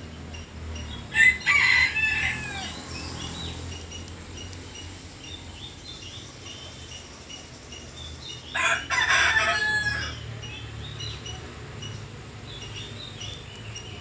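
A bird calling loudly twice, about seven seconds apart, each call about a second long with a gliding pitch. Small birds chirp faintly throughout.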